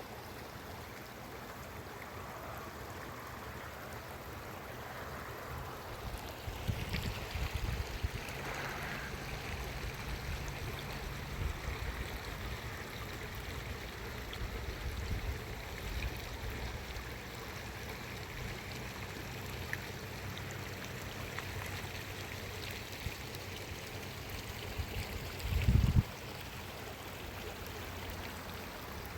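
Rain-swollen stream running steadily, with a loud short low thump shortly before the end.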